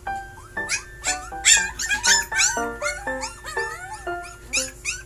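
Puppies yipping and whimpering in a run of quick high-pitched squeals, over background music with short plinking notes.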